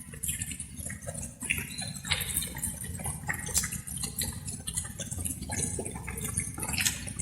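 Light rain dripping: many irregular drops splashing and plinking over a steady low rumble.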